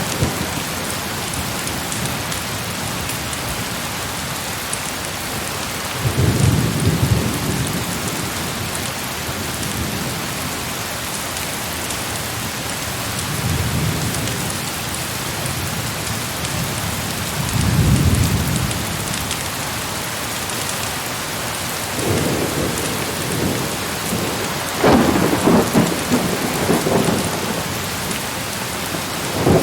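Heavy rain falling steadily, with several low rolls of thunder rumbling through it at intervals of a few seconds; the last roll, near the end, is the loudest.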